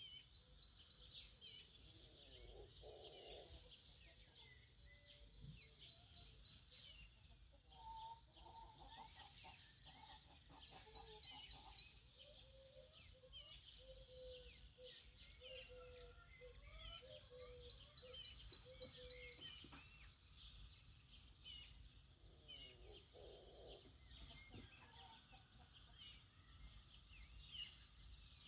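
Faint morning birdsong: many small songbirds chirping continuously, with lower runs of calls from distant farmyard fowl several times.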